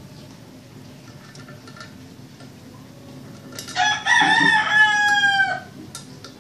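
A rooster crowing once, a single call of about two seconds starting a little past halfway in, its pitch falling away at the end.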